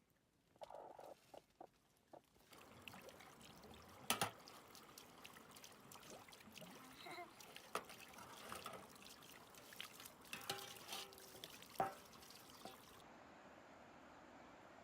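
Water trickling and pouring, with scattered clicks and knocks. After about thirteen seconds it gives way to a steady, even hiss.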